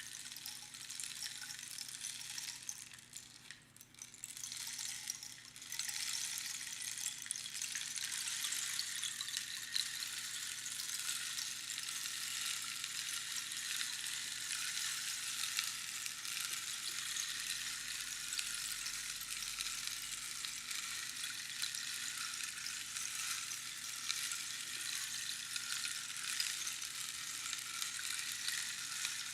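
Rainstick: small pebbles or beans trickling down over the pins inside the hollow tube in a dense, even patter like falling rain. The patter thins out about three seconds in and picks up again just before six seconds, when the stick is turned over.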